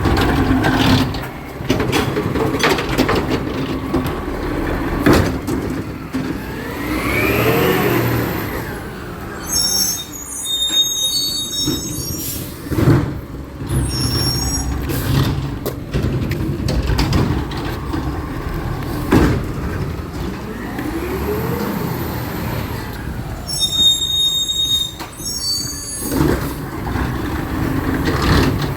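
Recycling truck's engine running, with repeated knocks and clatter; the engine revs up and back down twice, about fourteen seconds apart, each time followed by a short high hiss.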